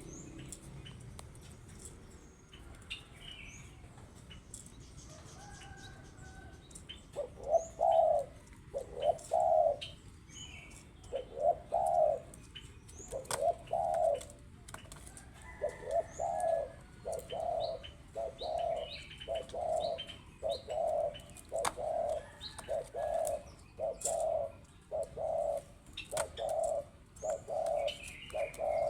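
Spotted dove cooing in full voice, a long run of short, even coos that starts about seven seconds in and goes on steadily, a little more than one a second. Faint chirps from small birds sound above it.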